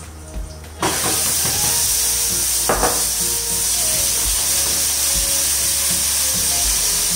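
Ginger-garlic paste hitting hot mustard oil in a stainless-steel frying pan: a sudden loud sizzle about a second in that carries on steadily while it is stirred.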